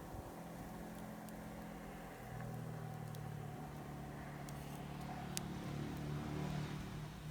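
A vehicle engine running with a steady low hum that grows a little louder about two seconds in, with a few sharp crackles from the burning plum wood.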